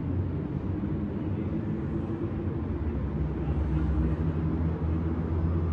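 Steady low rumble and hum of city traffic, with no single sudden sound standing out.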